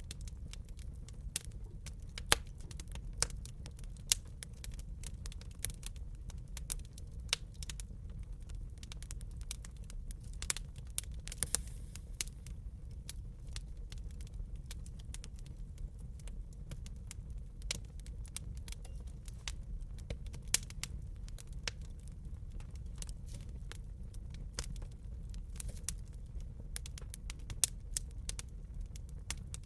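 Wood fire crackling and popping: irregular sharp pops and snaps, a few louder ones, over a steady low rumble of the flames.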